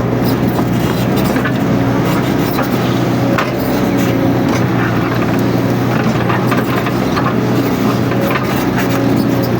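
Mini excavator's diesel engine running steadily under working load, with scattered cracks and snaps as scrub and brush are broken up.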